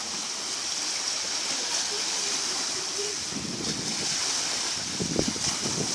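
Steady rushing, splashing water, with heavier low splashes in the second half.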